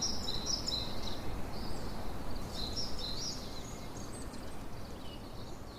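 Small birds chirping and twittering in quick, overlapping high notes over a steady low outdoor background hum, growing slightly fainter toward the end.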